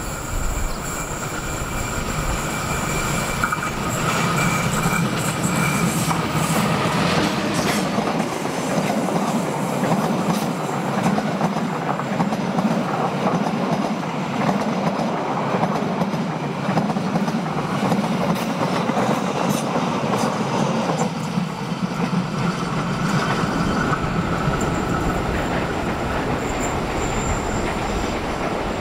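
Passenger train of stainless-steel carriages running past on a curved track: a steady, loud rolling rumble with a rhythmic clatter of wheels on rail, and a thin, steady squeal from the wheels on the curve.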